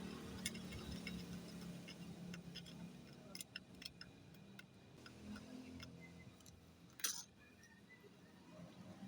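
Faint, scattered light clicks and taps, with one sharper click about seven seconds in, over a low steady hum.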